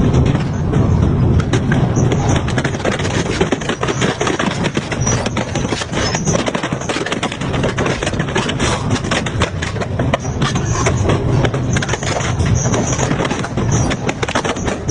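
Double-shaft industrial metal shredder running under load: a steady low drone from the machine with dense, irregular cracking and crunching as metal is torn between its shafts.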